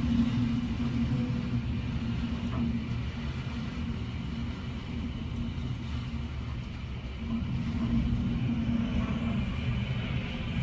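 Hurricane wind heard from indoors through a window: a steady low rumble that swells slightly about eight seconds in.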